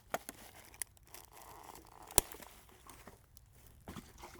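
Rustling and crunching of litter and debris as a discarded car tire is handled, with a few clicks and one sharp, loud snap about two seconds in.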